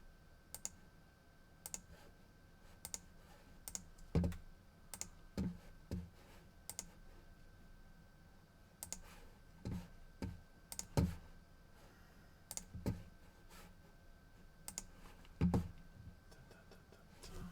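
Irregular clicks and taps of a computer keyboard and mouse, a click every second or so with a few quick pairs. A faint steady high tone sits underneath.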